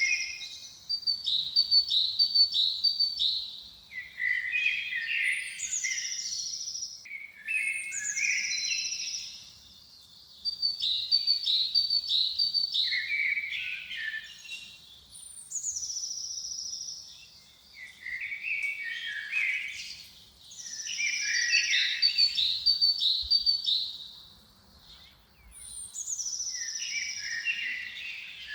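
A songbird singing in repeated phrases every few seconds. Each phrase opens with a high whistle sliding down, followed by a quick run of short notes and a few lower notes, with brief pauses between phrases.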